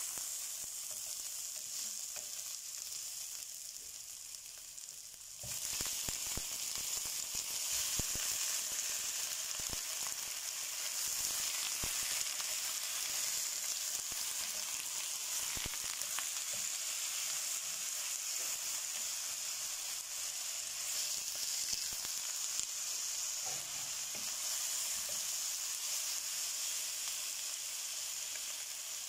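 Ginger and onion sizzling in hot oil in a stainless steel pan, stirred with a wooden spatula. About five seconds in the sizzle gets louder as raw chicken pieces go into the pan, with knocks and scrapes of the spatula against the pan over the next several seconds.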